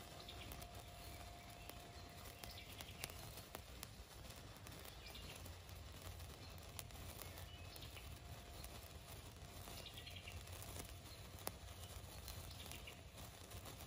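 Faint outdoor ambience: a bird sings a short falling phrase again every one to two seconds, with a few sharp crackles from a burning sparkler.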